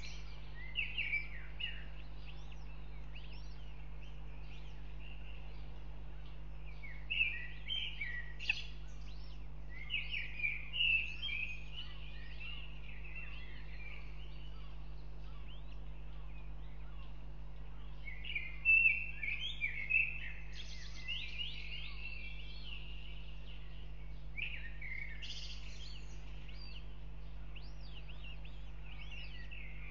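High-pitched bird chirping in several short bursts of rapid calls, the loudest a little past the middle. A steady low hum runs underneath.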